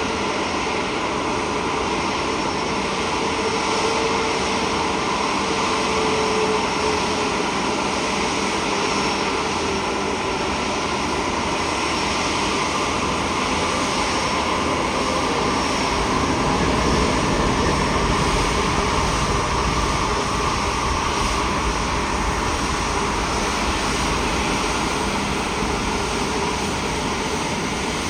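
Jet airliner engines: a steady rushing noise with a faint whine, growing a little louder past the halfway point and then easing.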